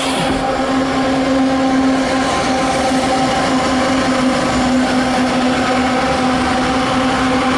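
A loaded coal train rolling by, giving a loud, steady drone with a constant hum.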